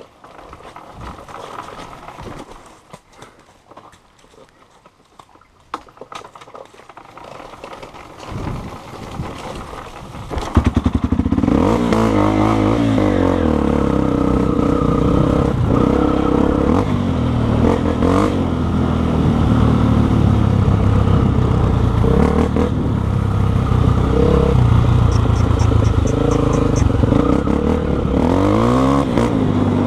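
Single-cylinder Honda XR 250 Tornado trail motorcycle engine starting about a third of the way in, then running and being revved up and down several times. Before it starts there are only faint clicks and handling noises.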